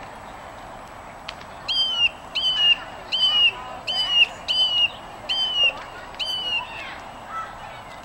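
A songbird repeating one short, downslurred note seven times, a little more than one a second, over steady background noise.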